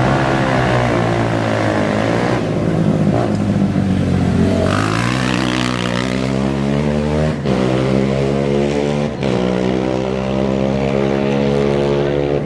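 Off-road race vehicle's engine revving and accelerating away, rising in pitch through the gears, with two short breaks in the note at the shifts.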